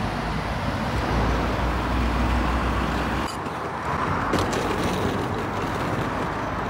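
Mercedes-AMG G63 SUV's engine running with a low rumble as it pulls up close and stops; the deepest part of the rumble drops away a little after three seconds in, leaving a steadier idle with street noise.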